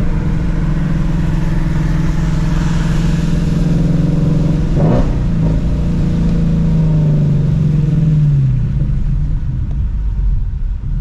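Shelby GT350's 5.2-litre flat-plane-crank V8 running steadily while driving on a wet road, with a short sharp sound about halfway through. Its revs fall near the end.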